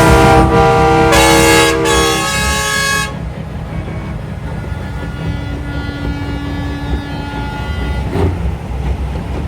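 Semi-truck air horns blasting, several horn chords overlapping loudly for about the first three seconds, then fainter horn tones further off over the steady low rumble of diesel truck engines.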